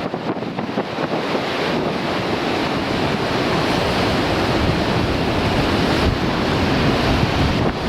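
Heavy sea surf breaking, building to a steady loud wash over the first few seconds, with strong wind buffeting the microphone.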